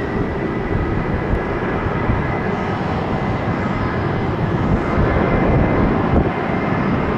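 Jet airliner engines running with a steady rumble and a faint high whine, swelling slightly near the end.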